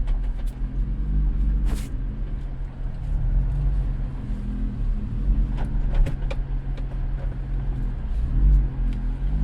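A vehicle engine running with a steady low rumble, with a few faint clicks over it.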